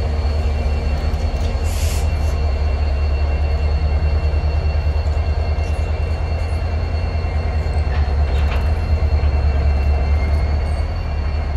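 A train running close by: a loud, steady low rumble with faint thin, high steady tones above it.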